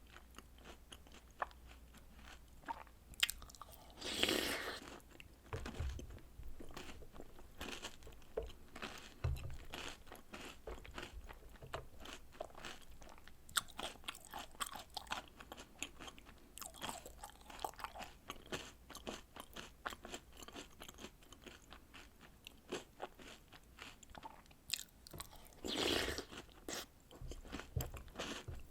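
Close-miked eating sounds: crunching, biting and chewing of chocolate cookies and cereal soaked in milk, a steady run of small crackling crunches. There are two louder, longer bursts, one about four seconds in and one near the end.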